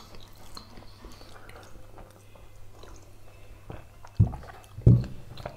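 Close-up eating and drinking sounds: soft chewing, sipping and swallowing of mashed potatoes, cutlets and milk. Two short, louder low thuds come about four and five seconds in.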